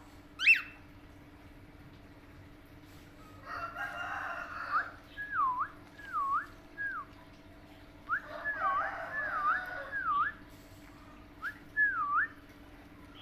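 A pet parrot gives one sharp squawk, then whistles a series of clear notes that each dip down and rise back up, in three runs mixed with soft chattering. A faint steady hum sits underneath.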